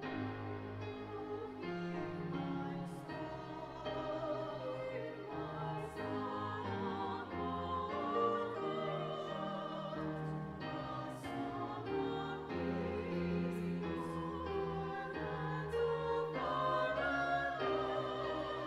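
A choir sings a slow piece with high voices wavering in vibrato over held instrumental accompaniment.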